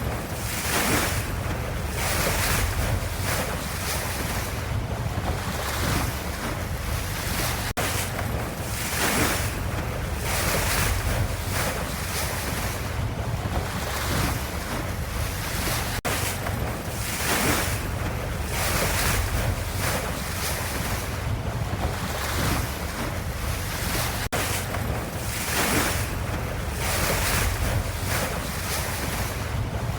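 Ocean waves: a continuous wash of surf with a deep low rumble, swelling in irregular surges every couple of seconds.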